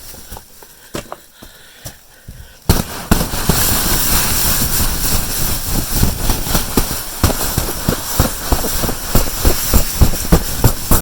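Snow being pushed and brushed by hand off an old, cold, brittle cover, with crunching and dense crackling. A few faint clicks at first, then loud and busy from under a third of the way in, cutting off abruptly at the end.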